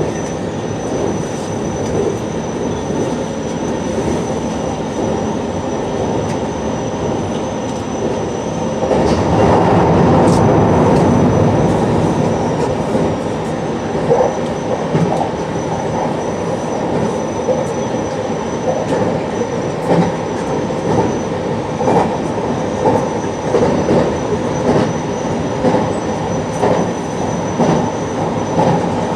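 JR Shikoku 8600 series electric train running at speed: a steady rumble of wheels on rail that swells for a few seconds about nine seconds in, then a regular clack of wheels over rail joints about once a second.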